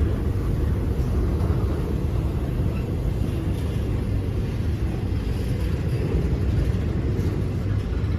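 Steady low rumble of a train rolling past.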